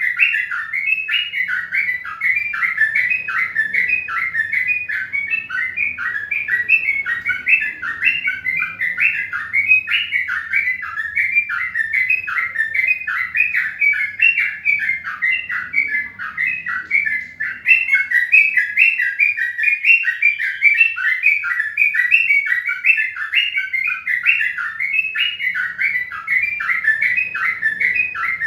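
A bird chirping without pause, short high chirps about three a second, with a faint low hum beneath.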